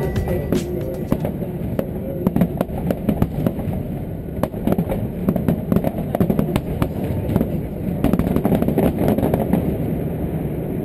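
Many sharp, irregular cracks and pops in quick succession throughout, with voices underneath.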